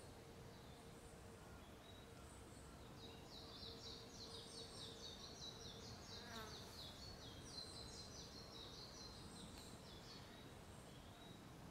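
A faint small songbird singing one long, rapid song of high chirping notes, starting about three seconds in and lasting about six seconds, over a faint steady low tone.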